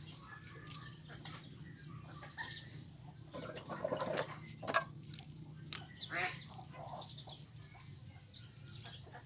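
Birds calling in the background, with a single sharp click a little past halfway.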